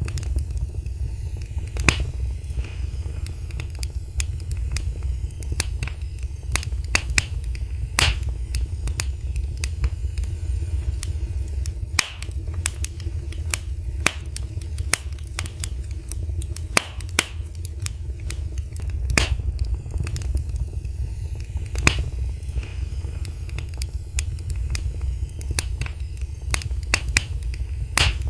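Fireplace fire crackling: irregular sharp snaps and pops, a few louder than the rest, over a steady low rumble.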